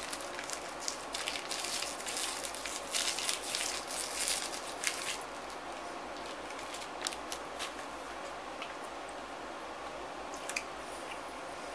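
Crinkling of a plastic wrapper and biting and chewing on a meat snack stick, dense crackly sounds for about the first five seconds, then only a few scattered clicks.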